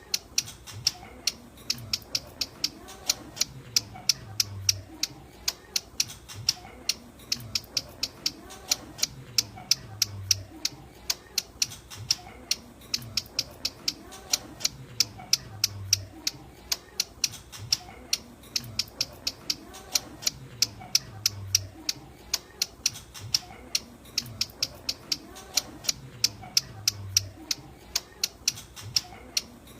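Ciblek gunung (a prinia) giving its characteristic calling call: a fast, unbroken series of sharp, high ticking notes, several a second, used as a lure call to attract other ciblek.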